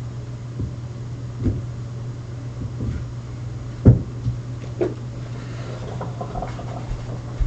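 Bissell PowerForce bagless upright vacuum running with a steady hum, with several knocks as it bumps against things, the loudest about four seconds in.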